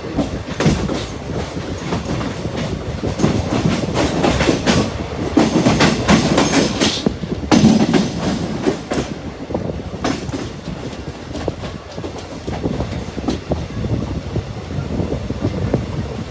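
The 19058 Mangaluru–Surat Express running, its coach wheels clattering over the rail joints in a steady stream of knocks, louder and busier for a few seconds in the middle.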